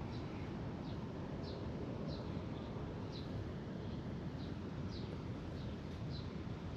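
A bird calling with short, high chirps repeated a little more often than once a second, over a steady low rumble.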